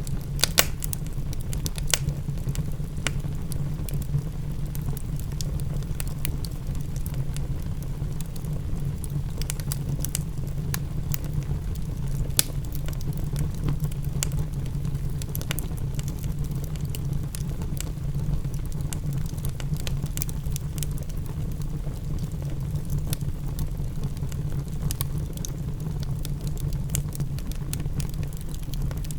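Wood fire in a fireplace crackling, with sharp pops scattered irregularly over a steady low rumble, mixed with rain for a rain-and-fireplace ambience.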